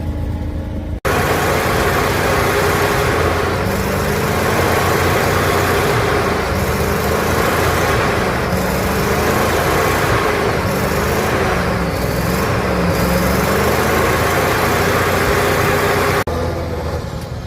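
Heavy 6×6 trial truck's engine working hard under load, its pitch rising and falling with the throttle over a dense rushing noise. The sound starts abruptly about a second in and breaks off just as suddenly near the end.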